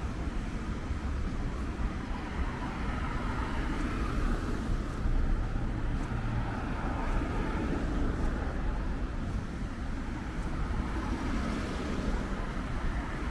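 Steady street ambience with road traffic running.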